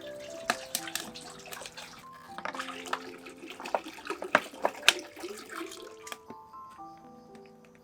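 Water splashing and running, with many sharp clicks and knocks, over soft background music of held notes. The splashing and knocking are busiest in the middle and stop about six seconds in, leaving the music alone.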